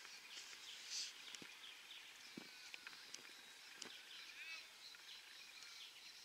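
Faint bird calls and chirps, with short warbling glides scattered through, over quiet outdoor ambience. A brief, louder high burst comes about a second in.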